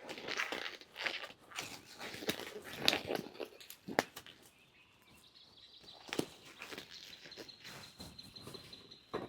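Irregular rustling and sharp knocks from handling or moving about, busiest in the first few seconds, with single knocks later; a faint steady high tone sets in about halfway.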